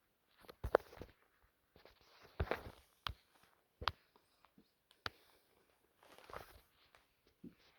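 Scattered light knocks and scuffling rustles at an uneven pace, about a dozen in all.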